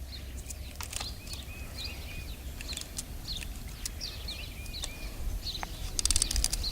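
Small birds chirping with short, repeated notes over a steady low rumble. A burst of rapid clicking comes near the end.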